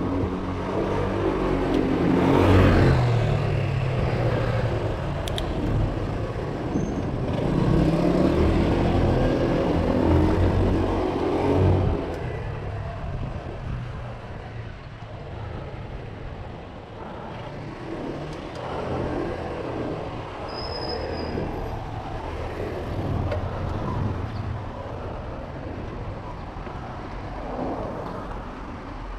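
Urban road traffic heard from a bicycle in traffic: motor vehicle engines running close by, loudest for about the first twelve seconds, then dropping to a lower, steadier rumble with vehicles passing now and then.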